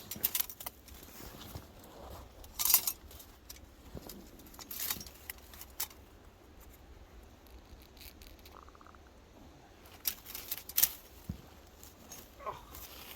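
Steel beaver trap and its chain clinking and jangling as it is handled and set, in a handful of short sharp bursts.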